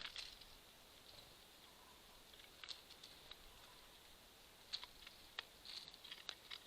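Faint, scattered sharp taps and ticks, a few a second in places and more frequent in the second half: small birds pecking at seeds and hopping on a squirrel feeder.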